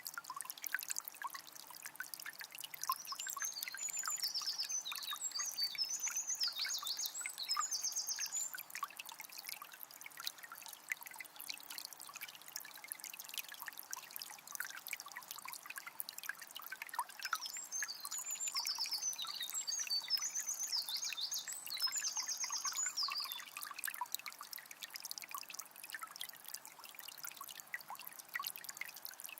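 Small spring trickling and splashing steadily. A songbird sings twice, each high, quick song lasting about five seconds.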